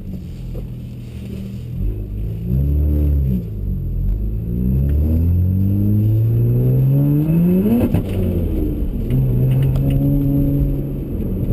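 BMW 135i's turbocharged inline-six through a muffler-less prototype exhaust with downpipes, heard from inside the cabin as the car pulls away. The engine note rises and falls briefly, then climbs steadily for about four seconds under acceleration, drops sharply about eight seconds in, and settles to a steady lower note.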